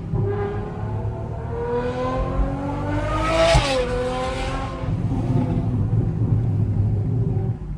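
Straight-piped Ferrari V12 exhaust under acceleration: the engine note climbs steadily for about three seconds, then drops sharply and carries on at a lower, steadier pitch.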